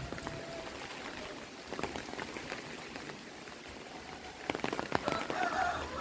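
Heavy rain falling steadily, with drops striking surfaces as scattered ticks and a quick cluster of sharper strikes about three-quarters of the way in. A brief pitched sound joins near the end.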